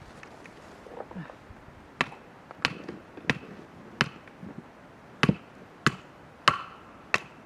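Driftwood being split for firewood: sharp knocks on the wood roughly every two-thirds of a second, starting about two seconds in.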